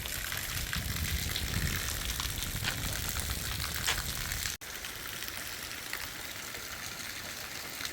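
Heavy rain falling, a steady hiss. About halfway through the sound cuts out for an instant and comes back with less low rumble.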